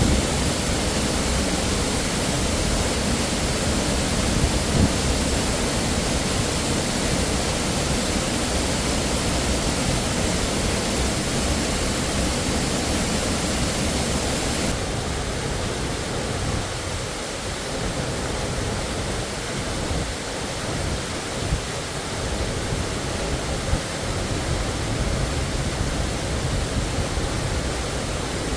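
Waterfall rushing steadily. About halfway through the sound abruptly loses some of its hiss and carries on slightly duller.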